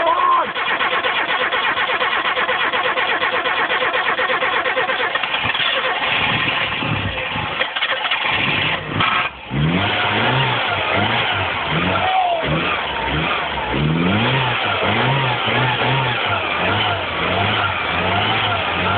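A 1986 Nissan Cherry 1.3's four-cylinder petrol engine being started cold after four years laid up. The starter cranks it for about six seconds, the engine catches, falters briefly, then runs and is revved up and down repeatedly to keep it going.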